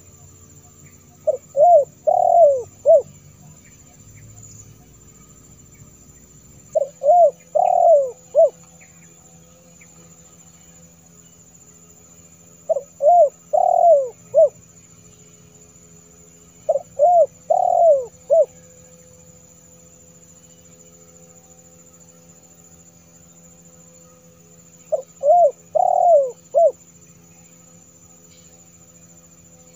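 Spotted dove (tekukur) cooing: five phrases of four or five coos each, the middle coo the longest, repeated every four to eight seconds. It is a lure-call recording used to draw in wild doves.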